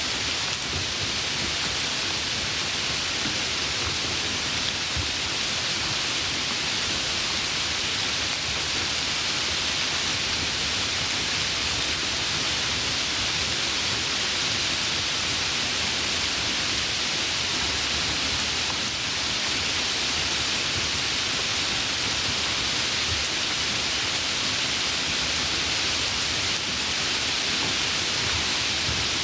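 Steady heavy rain, an even hiss of falling drops that does not let up.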